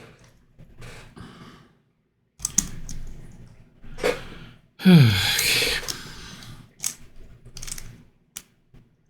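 Plastic corner-turning twisty puzzle (a Corner Helicopter 2x2) being turned and twisted in the hands, giving short groups of clicks and rattles. About five seconds in comes a loud breathy sigh that falls in pitch.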